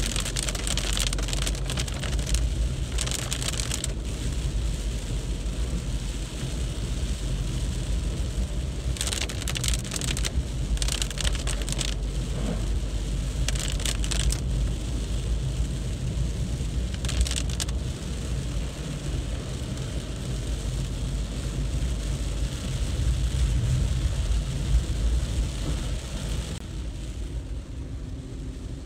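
Car traffic on a rain-soaked road in heavy rain: a steady low rumble with several spells of hissing tyre spray, the hiss dropping away near the end.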